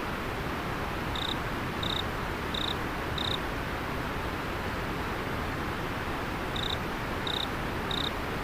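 Steady rush of river water with an autumn insect chirping over it: four short, high chirps about 0.7 s apart starting about a second in, then three more near the end.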